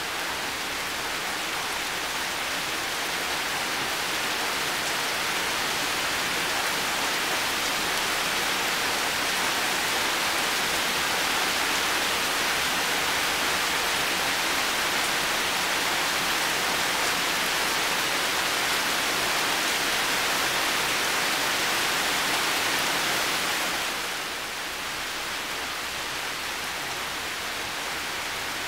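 Heavy rain falling steadily, a dense even hiss with no separate drops standing out; it slowly builds in the first half and eases slightly about 24 seconds in.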